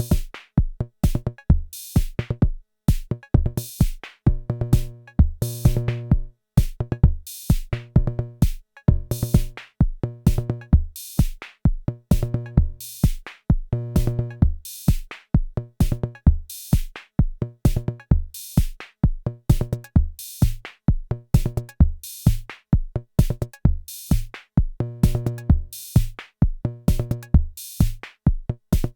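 Arturia DrumBrute Impact analog drum machine playing a sequenced beat: kick drum, bright high cymbal or hi-hat strokes, and a pitched drum part that recurs in a repeating pattern.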